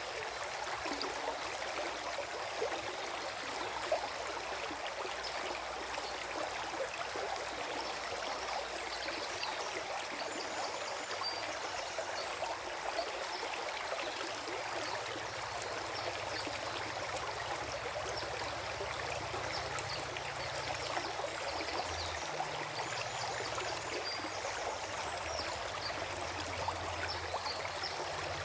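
Forest stream flowing and gurgling steadily over its bed.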